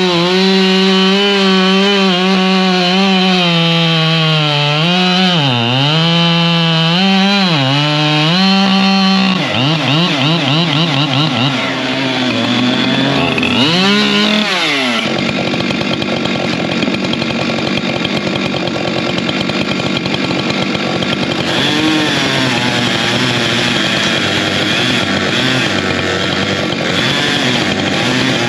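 Two-stroke chainsaw running at high revs, its pitch sagging twice under load as it bites into wood. About fourteen seconds in it revs up sharply, then runs on with a rougher, noisier sound as cutting continues.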